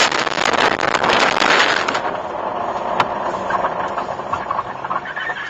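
Car and road noise from a dashcam, with a loud rushing burst in the first two seconds and a single sharp knock about three seconds in.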